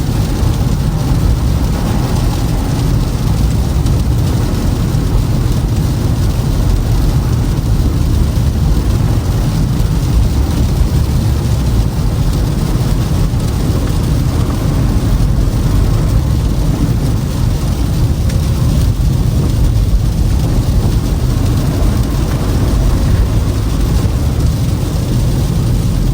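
Steady low rumble of a Toyota Camry driving on a snow-covered, icy road: tyre and road noise with the engine underneath.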